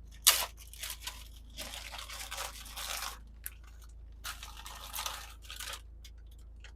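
Plastic bag of frozen leftover potatoes being opened and handled: a sharp click just after the start, then two long stretches of crinkling and crunching rustle.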